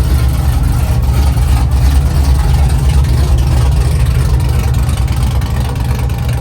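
A vehicle engine idling with a loud, steady, deep rumble.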